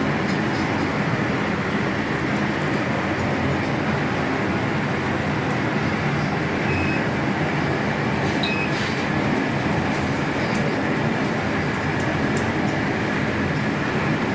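Elevator car running during a long descent down a tower shaft: a steady, even rushing rumble with no break.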